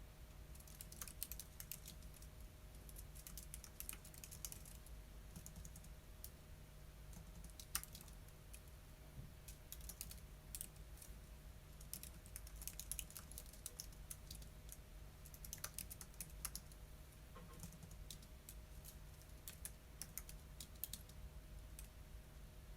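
Typing on a computer keyboard in short bursts of quick key clicks, with pauses between them, faint over a low steady hum.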